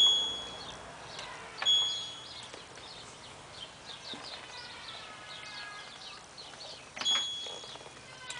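LG F1222TD washing machine's control panel beeping three times, a short high beep as each setting is changed, the second about two seconds after the first and the third near the end. Faint chirping runs underneath.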